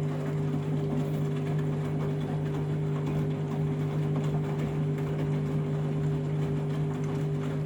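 Washing machine running through the final deep rinse of a mega-load cycle: a steady, even motor hum over a noisy wash.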